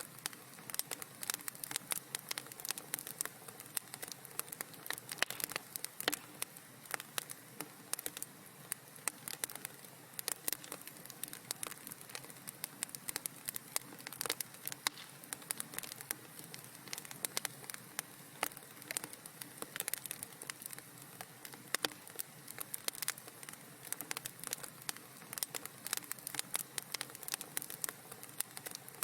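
Wood fire crackling in a fireplace: a steady stream of irregular small pops and snaps over a soft hiss.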